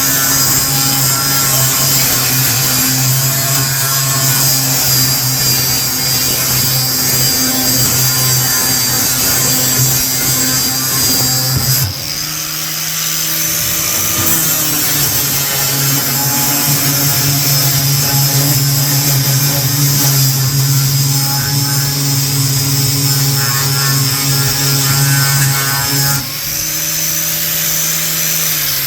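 Corded Bauer 7-amp angle grinder running at full speed with a strip disc held against a metal pan, the grinding noise loud over a steady motor whine. The disc comes off the work briefly about halfway through and again near the end, and the grinder is then switched off and winds down with a falling whine.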